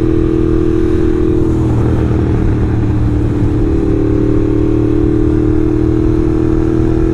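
Ducati L-twin motorcycle engine running at steady cruising revs while riding. The engine note wavers briefly about two seconds in, then settles and climbs slightly.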